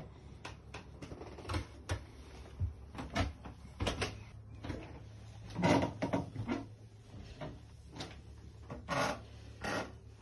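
An irregular series of light knocks and rubbing noises over a low steady hum, the loudest about six and nine seconds in.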